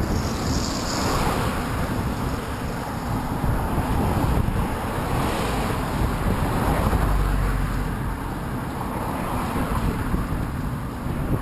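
Wind buffeting the microphone of a camera on a moving bicycle ridden into a headwind: a steady, heavy low rumble of wind noise.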